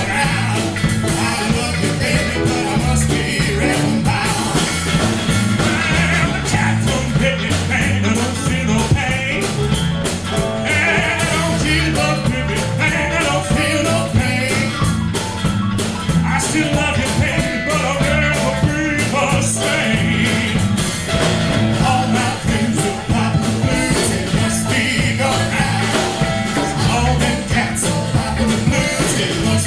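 Band playing an uptempo rock-and-roll blues song, with a stepping bass line under a steady beat.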